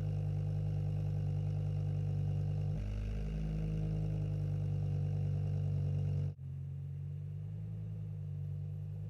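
BMW E60 M5's V10 running steadily at idle through an aftermarket exhaust. The note shifts slightly a little under three seconds in. About six seconds in it breaks off abruptly, and a quieter idle carries on.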